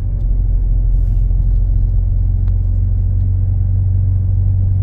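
Exhaust note of a 2025 Ford Explorer Active's 2.3 EcoBoost four-cylinder, fitted with Jones Full Boar mufflers and a deleted resonator, heard from inside the cabin while cruising at light load around 1400 rpm. A steady low hum with no rise or fall in revs.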